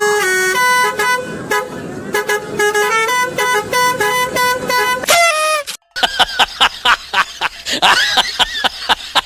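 Basuri 'telolet' multi-tone bus horn playing a stepped tune of sustained notes for about five seconds, ending on a slightly falling note. After a brief break comes a quick run of short sounds sliding in pitch.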